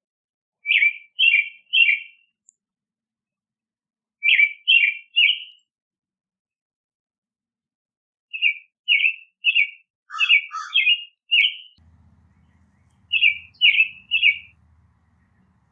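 A songbird singing short phrases of three clear notes, about half a second apart. The phrase repeats about every three to four seconds, once running to six notes.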